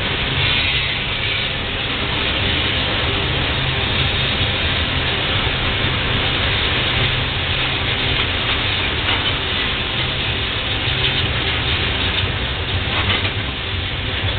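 Tank cars of a slow-moving freight train rolling past: a steady rumble of steel wheels on the rails, with a few faint clicks near the end.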